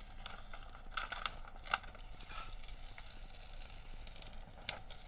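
A rolled diamond-painting canvas and its plastic cover film crinkling as they are handled, in scattered short crackles.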